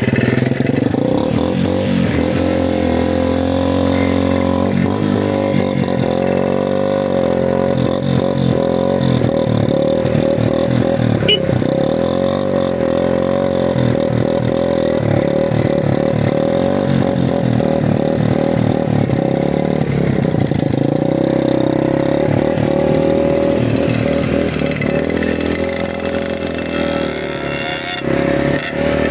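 Motorcycle engine running steadily while riding, its pitch shifting a little as the throttle changes.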